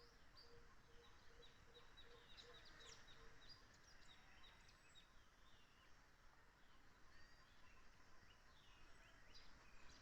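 Faint birds chirping and calling, many short high notes scattered throughout, with a low note repeated about three times a second for the first few seconds.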